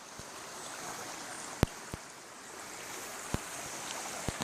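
Creek water running steadily, with a few brief sharp clicks partway through.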